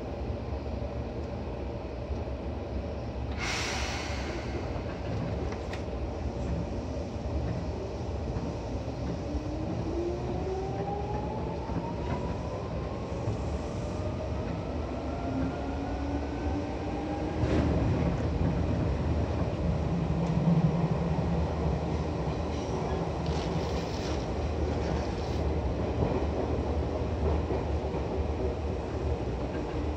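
Seibu 2000 series electric train heard from inside the car, pulling away: a sharp burst of noise a few seconds in, then the traction motor whine rising steadily in pitch for about ten seconds as the train gathers speed. A clunk comes about halfway through, after which the train runs on with steady rumble and wheel noise.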